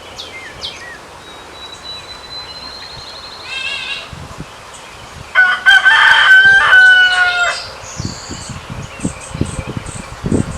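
A rooster crows once, a loud crow lasting about two seconds, a little past the middle. Fainter bird chirps come before it, and soft knocks follow near the end.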